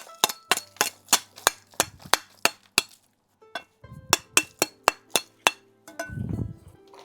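Fired clay bricks clinking sharply against each other as they are handled and stacked, about two or three knocks a second, with a short pause and a duller thud about six seconds in.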